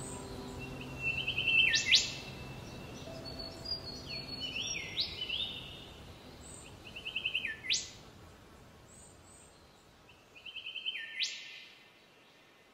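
A bird calling about four times, each call a quick stuttering run of short notes ending in a sharp rising whistle that drops away. Soft background music fades out in the first few seconds.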